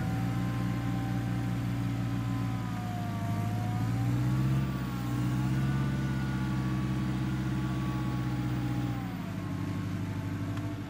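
An off-road 4x4's engine running under load, pulling harder about four seconds in and easing off near the end, with a higher whine wavering above the engine note.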